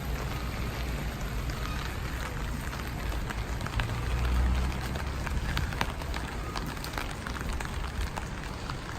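Steady rain falling, with many small sharp drop ticks over an even hiss. A low rumble swells briefly about four to five seconds in.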